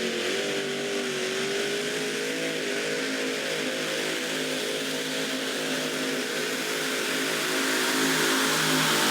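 Pulling tractor's engine running hard at high revs, its pitch wavering a little early on, then growing louder near the end.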